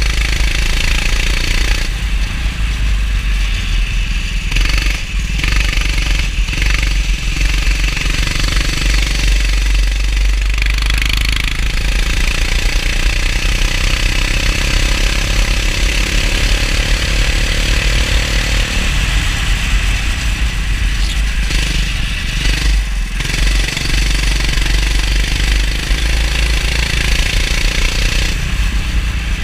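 Go-kart engine running under load, over a heavy low rumble. Its pitch rises steadily for several seconds midway, and it dips briefly a few times as the throttle is lifted.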